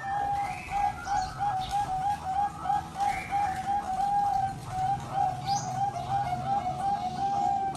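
Zebra doves (perkutut) cooing: an unbroken run of short, quick coos at one steady pitch, with a few higher chirping notes over it.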